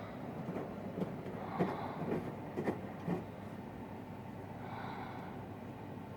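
Samsung WW900 front-loading washing machine running its Super Speed rinse, the drum turning with a steady running noise and a few short thumps between about one and three seconds in.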